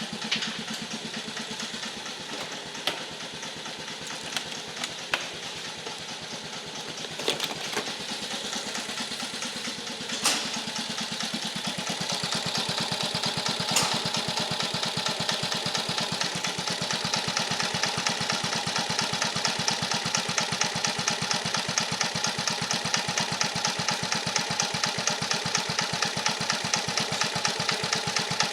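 1950 REO engine idling very low after its idle was turned down, firing in even pulses with a few sharp clicks in the first part. About ten seconds in it picks up slightly and runs louder and steadier.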